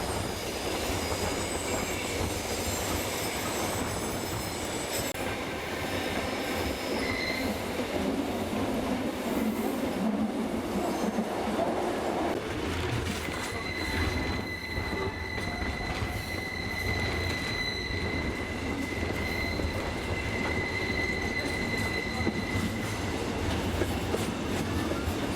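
Steam-hauled passenger train running along the track with a steady rumble of wheels on rails. About halfway through, the wheels set up a steady high-pitched squeal that holds for around ten seconds.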